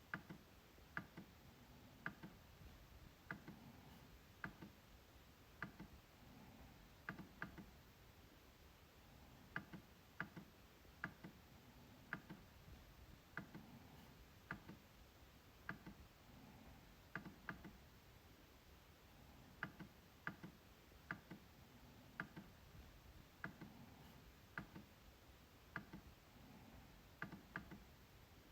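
MacBook trackpad clicking under a finger: short sharp clicks about once a second, many in quick double-click pairs.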